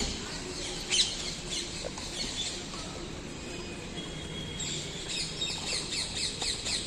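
Many birds calling and chattering in trees. From about two-thirds of the way in, one bird repeats a short, high call rapidly, about four times a second. A single sharp click comes about a second in.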